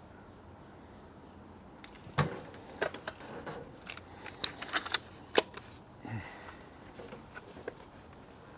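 A string of sharp clicks and knocks from objects being handled, starting about two seconds in and dying away after about six, with the loudest knocks about two seconds in and again a little after five.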